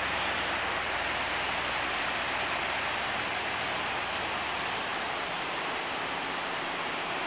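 Steady rush of floodwater in a river running high and fast after three days of rain.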